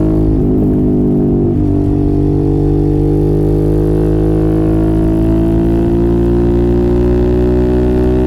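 Suzuki motorcycle engine running under load through an aftermarket exhaust. The pitch wavers briefly early on, then climbs slowly and steadily as the bike gathers speed.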